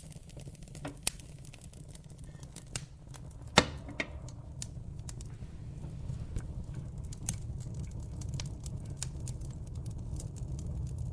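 Wood fire in a fireplace crackling, with irregular sharp pops and snaps over a steady low rumble of the flames. The loudest pop comes about three and a half seconds in, and the crackles grow denser in the second half.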